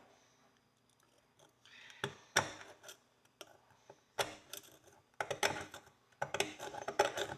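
Irregular clicks, knocks and short scrapes of a rusty horseshoe being handled and scrubbed clean by hand. They start after about two seconds of quiet and come thicker near the end.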